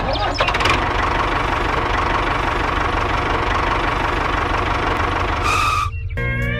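A tractor-type engine running steadily at idle with a knocking rhythm. It cuts off just before the end, when guitar music comes in.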